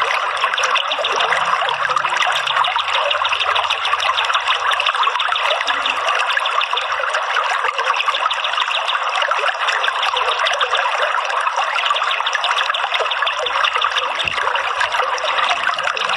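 Water trickling and flowing steadily, an even rush with fine rapid splashing throughout.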